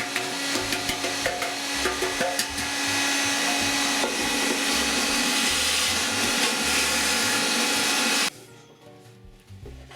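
A small electric motor-driven tool running steadily with light scraping and ticking. It cuts off suddenly about eight seconds in, leaving faint clinks of metal parts.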